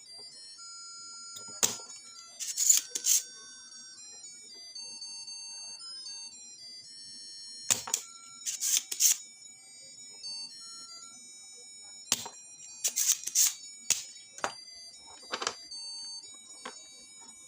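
A thin, tinny electronic melody of high beeping notes, broken by clusters of short sharp clicks or crackles every few seconds.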